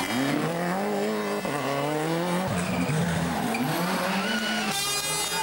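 Turbocharged World Rally Car engine revving hard, its pitch climbing and dropping several times with gear changes and lifts. There is a short burst of noise about five seconds in.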